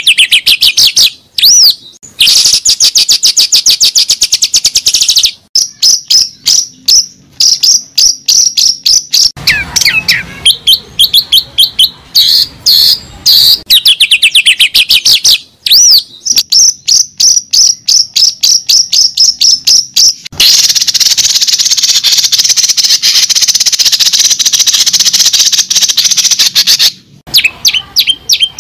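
A bird singing loudly and close: fast runs of repeated chirps and trills with a few sweeping notes, and a long harsh, buzzy trill in the last third.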